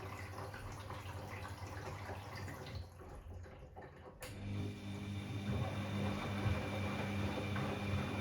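Bosch Classixx 6 washing machine in its cool-down phase: water splashing in the drum. A sharp click comes just past four seconds in, and then a steady motor hum with a whine sets in.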